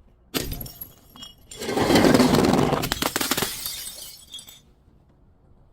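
Glass breaking: a sharp crack about a third of a second in, then a longer crunching shatter with tinkling shards that trails off after about three seconds.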